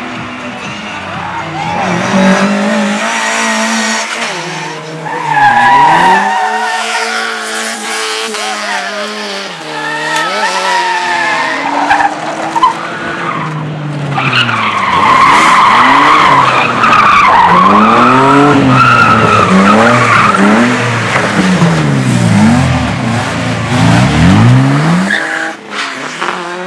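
Race car engines revving hard, their pitch climbing and dropping again and again through gear changes and passes, with tyres skidding and squealing on the loose surface in the second half.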